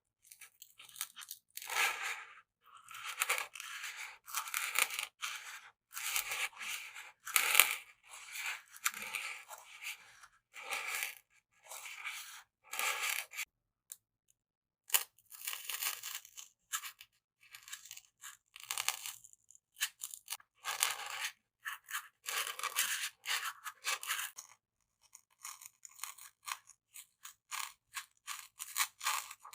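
Bamboo stick scraping and rubbing against a close microphone in short, irregular scratchy strokes.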